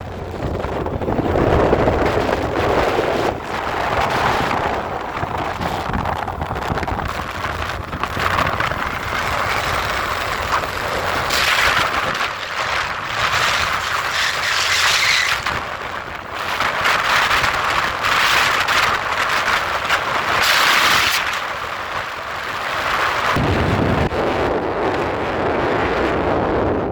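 Wind buffeting the microphone of a moving motorcycle, with road noise, swelling and easing every few seconds.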